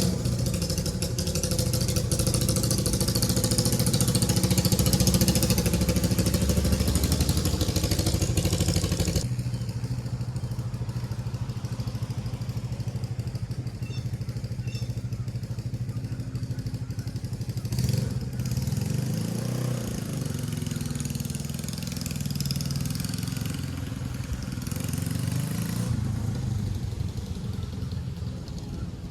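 Honda CJ360's parallel-twin engine running steadily. The sound changes abruptly about nine seconds in, and around two-thirds of the way through the engine revs up and back down.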